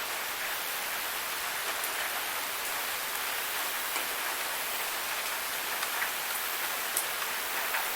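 Forest waterfall: a steady rushing hiss of falling water, with a few brief splashes standing out, one plain at about seven seconds.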